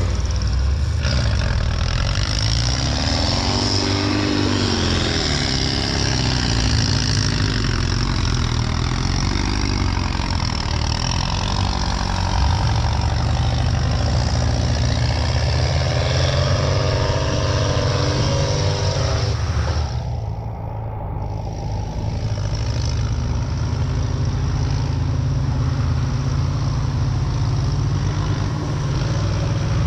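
Off-road racing truck engines running hard and revving, the pitch rising and falling as the trucks push through the terrain. About two-thirds of the way through, the sound turns briefly muffled.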